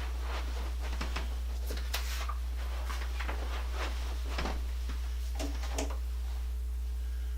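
Scattered light clicks and knocks of parts and hand tools being handled during assembly, over a steady low hum.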